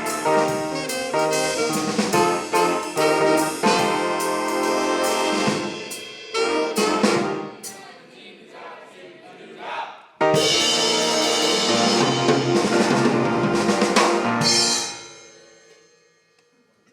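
High school swing band (a jazz big band of horns and drum kit) playing the end of a tune: full ensemble at first, thinning out after about six seconds, then a sudden loud final chord about ten seconds in, held for about four seconds before dying away.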